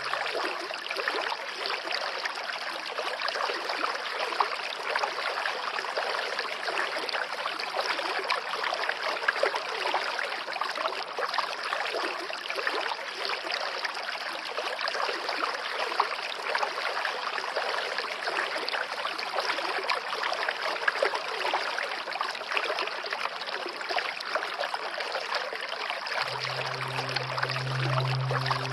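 Water flowing and trickling steadily, like a small stream, with small irregular splashes. Near the end, a low, held music tone comes in underneath.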